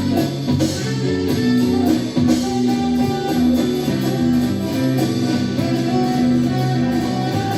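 Live instrumental band music with guitar, steady and continuous with changing chords.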